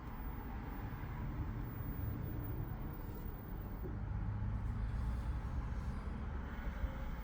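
LG front-loading washing machine on its spin cycle, the drum spinning with a steady low rumble that slowly grows louder as it speeds up.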